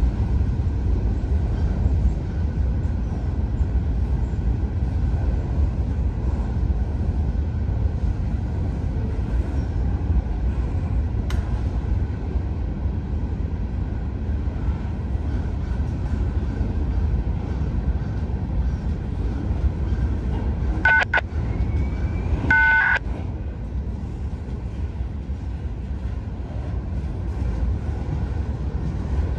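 Loaded freight train's open-top gondola cars rolling past on the rails, a steady low rumble of wheels on track. A brief high squeal and clicks come about three-quarters of the way through.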